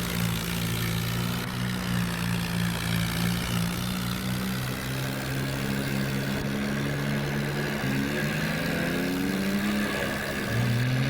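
Tractor diesel engine running steadily, then revving up, its pitch rising over the last few seconds.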